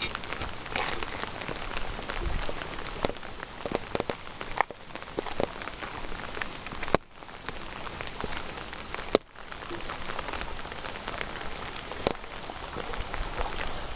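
Steady rain falling, with many single drops striking close to the microphone. Two sharper taps stand out about seven and nine seconds in.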